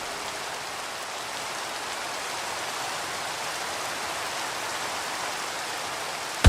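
Steady rain falling, an even patter with no music over it.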